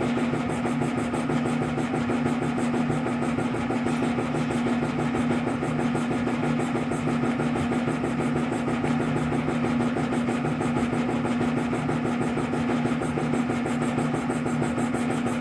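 A motor running steadily at constant speed, a continuous even drone with a fast regular pulse.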